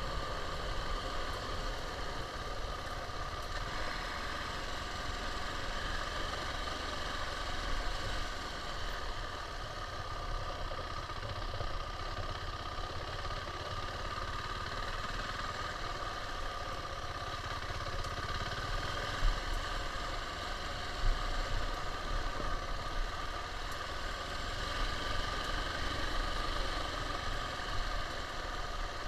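KTM 690 motorcycle's single-cylinder engine running steadily, with a couple of brief knocks around the middle.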